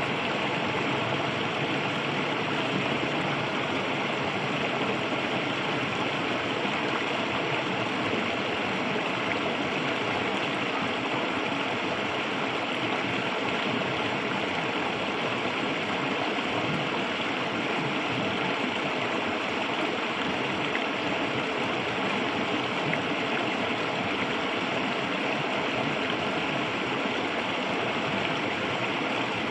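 Shallow river water flowing and gurgling steadily over stones.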